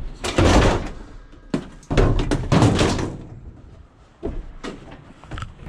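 Vehicle doors or boot being shut: two loud slams with some clatter, followed by a few lighter clicks and knocks.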